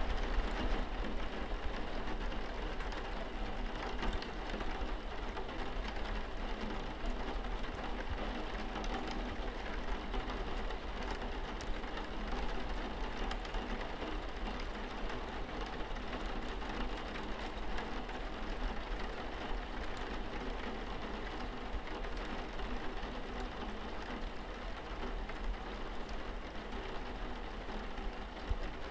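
Steady rain falling on a window pane, an even hiss with scattered ticks of single drops and a steady low rumble underneath.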